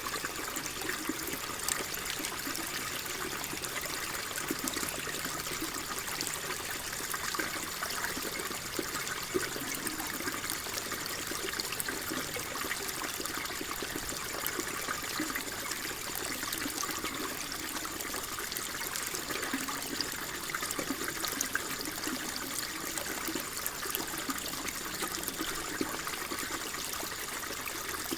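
Water flowing and trickling steadily, a continuous bubbling rush with small splashes and no pauses.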